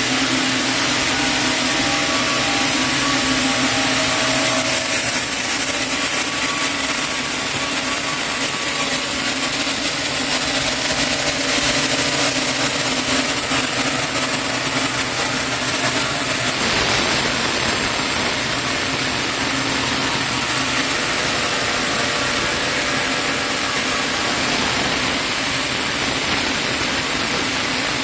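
Sawmill saw running through a chinaberry (sendan) log: a loud, steady machine noise whose tone shifts about 17 seconds in.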